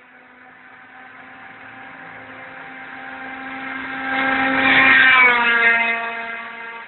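Mitsubishi Lancer Evolution II's turbocharged four-cylinder through a Roost exhaust, driving past. The steady exhaust note grows louder for about five seconds, peaks, then drops a little in pitch and fades as the car goes away.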